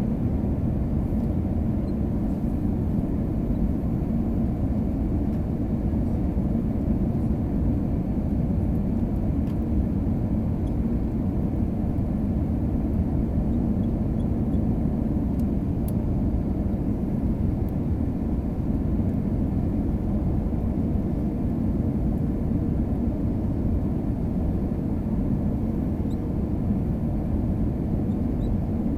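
Steady cabin noise inside an Airbus A320-232: an even low rumble of engines and airflow, unchanging in level.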